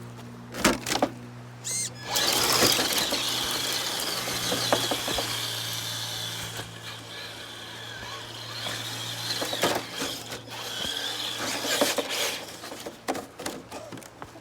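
Traxxas TRX-4 RC crawler's electric motor and gear drive whining under load as it crawls over rocks, with knocks of the tyres and chassis on stone. A few sharp clicks come first, the motor runs from about two seconds in until about ten seconds in, and scattered knocks follow.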